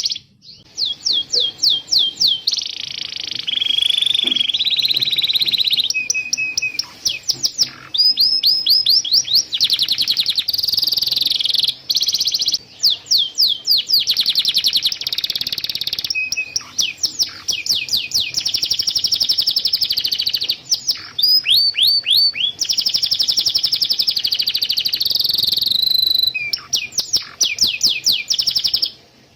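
Domestic canary singing a long song of rapid trills, each a fast run of repeated high sweeping notes, switching to a new trill every second or two.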